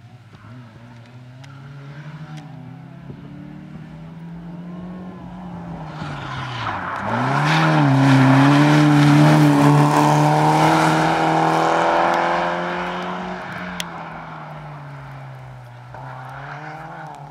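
A small hatchback's engine revving hard as it runs past. The revs drop sharply about seven seconds in and climb back, it is loudest for several seconds in the middle, then it fades as the car pulls away.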